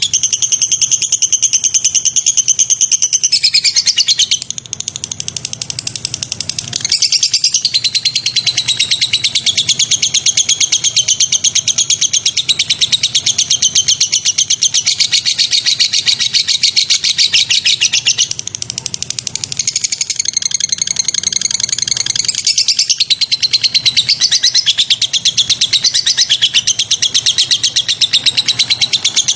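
Songbird singing loud, very fast high trills and chatter almost without a break, a masteran training song; the song eases off briefly about four seconds in and again around eighteen seconds.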